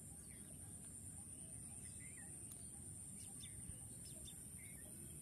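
Faint outdoor ambience: scattered short bird chirps over a steady high-pitched hiss and a low rumble.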